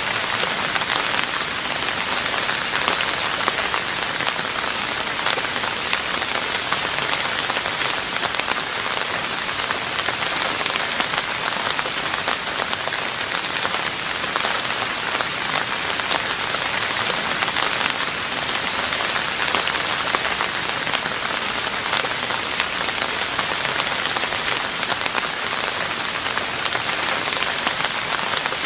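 Steady rain falling on a roof, an even dense patter of drops that keeps the same level throughout.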